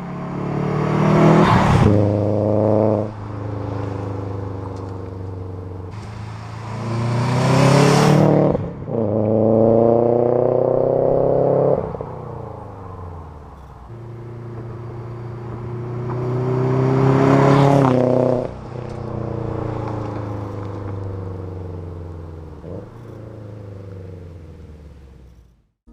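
Exhaust of a 2006 Subaru WRX's turbocharged flat-four, run through a catless downpipe and Invidia G200 catback, as the engine is revved hard three times. Each time it climbs in pitch to a loud peak, then drops away suddenly before settling lower.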